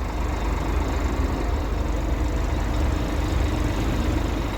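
Scania G420 truck's diesel engine idling steadily, a low, even rumble.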